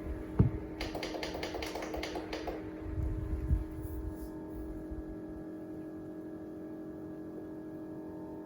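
A quick run of about eight sharp clicks or taps with a couple of dull thumps, over a steady hum.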